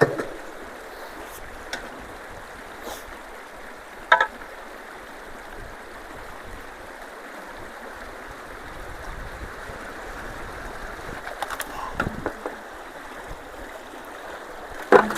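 Water rushing steadily through a culvert under a low-water bridge. A few short sharp knocks come about four seconds in, around twelve seconds in, and near the end.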